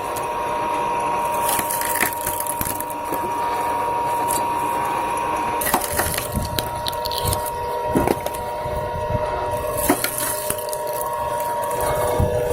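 Homemade electric log splitter, driven by a 3 kW motor through a gearbox and belt pulleys, splitting logs: a steady machine whine with repeated sharp cracks and knocks of wood breaking apart.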